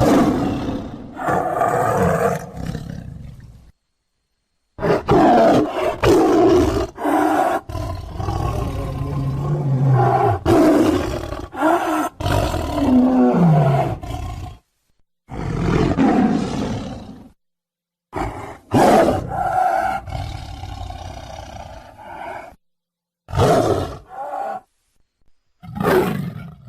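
A series of roar and growl sound effects for a creature, played as separate takes that start and stop abruptly, with short dead-silent gaps between them.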